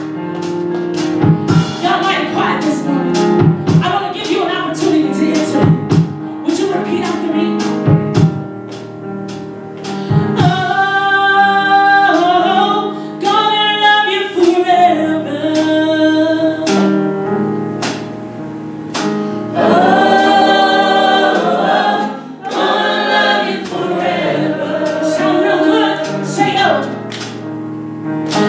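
Live gospel music: a vocal group singing in harmony with long held notes, backed by a band with drum hits.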